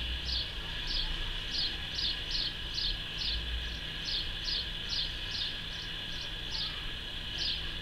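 A small bird calling: a steady series of short, high chirps, each sliding downward in pitch, about two a second, with a short pause near the end before it starts again.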